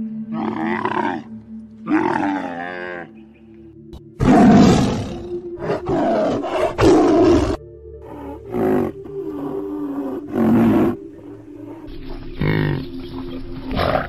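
A string of deep, drawn-out camel calls, loudest in the middle, followed by the calls of a rhinoceros, over quiet background music.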